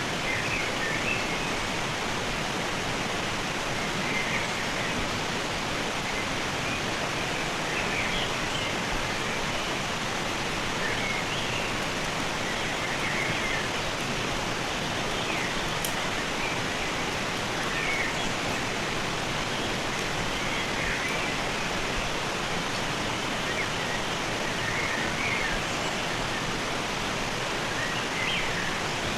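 Rushing stream water running with a steady, even rush, with brief high chirps every few seconds above it.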